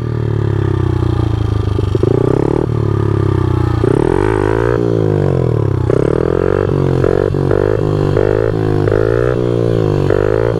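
Pit bike's small single-cylinder four-stroke engine pulling in first gear. It runs fairly steady at first, then its pitch rises and falls over and over, about once a second, from about four seconds in as the throttle is worked.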